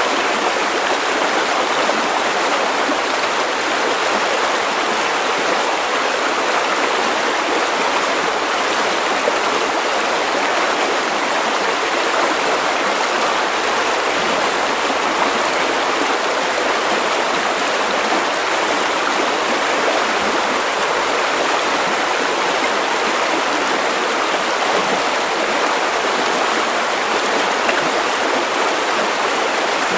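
River water flowing over stones, a steady, unbroken rushing and babbling.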